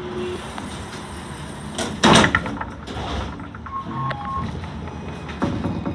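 Cabin noise inside a C Class tram at a stop, with one loud thud about two seconds in and a short beep about four seconds in, amid scattered clicks.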